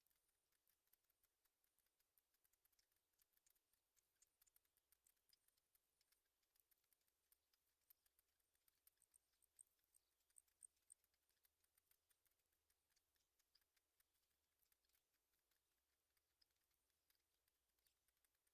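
Near silence with faint, scattered clicks and ticks throughout, and a few very short, very high peeps about halfway through.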